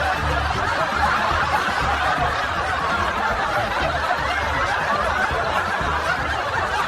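A crowd of people laughing and chuckling together in a steady wash of laughter that cuts off suddenly at the end.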